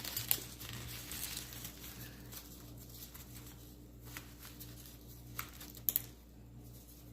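Rustling and small clicks of artificial flowers and craft wire being handled and fastened, with a sharp double click about six seconds in.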